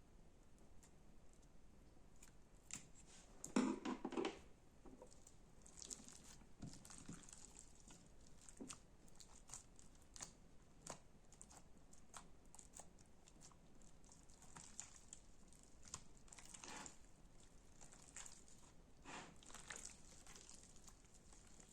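Slime being pressed and worked by hand, giving faint scattered sticky clicks and crackles, with one louder squelchy crackle about three and a half seconds in.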